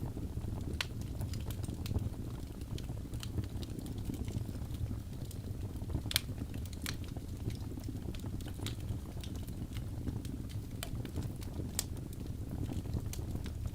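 Birch logs burning in a fireplace: a steady low rumble of the flames with irregular sharp crackles and pops, the loudest pops about halfway through and near the end.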